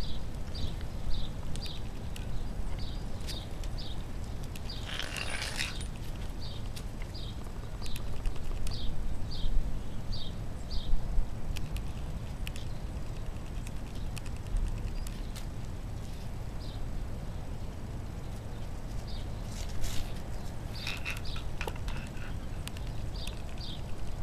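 A small bird chirping over and over, short high chirps about one to two a second, over a constant low rumble, with a brief louder rustle about five seconds in.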